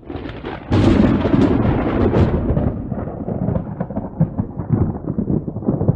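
Thunder: a crack about a second in, then a long rolling rumble that slowly fades.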